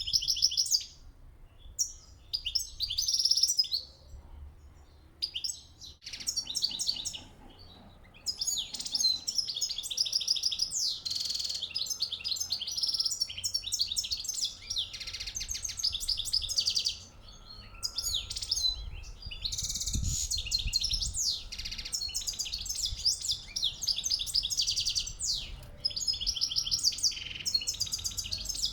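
European goldfinches singing excitedly: rapid, high twittering trills and chirps, broken by short pauses in the first few seconds, then almost without a break.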